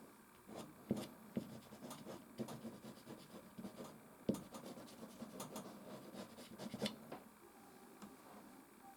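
Soft pastel scratching across canvas in many short, uneven strokes. The strokes stop about seven seconds in.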